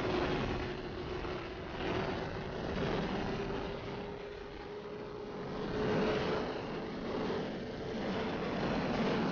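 Sport motorcycle riding at speed: a steady engine drone that slowly rises in pitch, under a loud rush of wind on the microphone that swells and fades.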